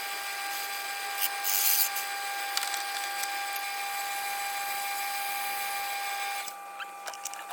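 A power tool's motor running steadily with a hiss of wood being cut, louder in bursts near the start. The cutting noise drops away about six and a half seconds in.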